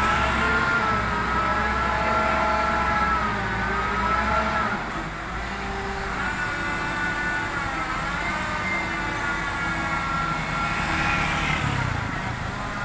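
Crane truck's engine running hard and revving, its pitch rising and falling in two long surges, as it drives the crane's lift.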